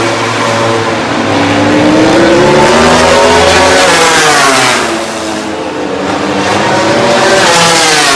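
MotoGP racing motorcycles running at high revs, loud, the engine note sweeping down as they slow and climbing again as they accelerate, several times over.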